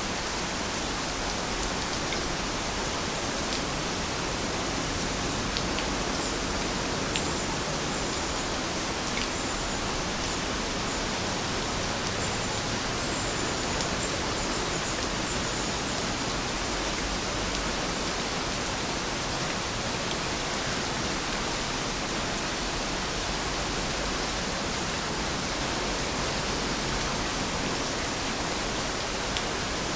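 Steady rain falling, a continuous even hiss with occasional faint drop ticks.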